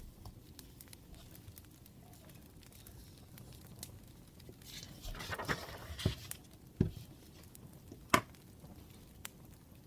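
Faint crackling of a wood fire, with scattered small pops. About five seconds in comes a louder rustling noise, then a few sharp taps or knocks; the loudest is about eight seconds in.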